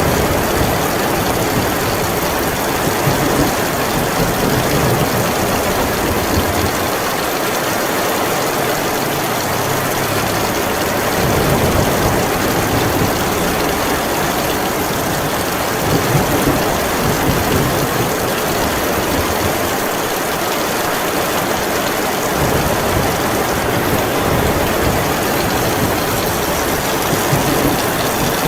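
Heavy rain falling in a steady hiss, under a low rumble of storm wind that swells and fades every few seconds.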